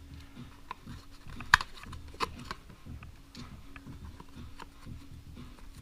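Light metal taps and clicks of engine case bolts being handled and pushed into holes in a cardboard sheet. There is one sharp click about one and a half seconds in and another just past two seconds, with fainter ticks between them and a faint steady hum underneath.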